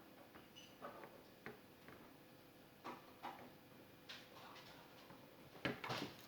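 Faint, scattered light clicks and knocks, like small hard objects being handled, with a few louder knocks near the end.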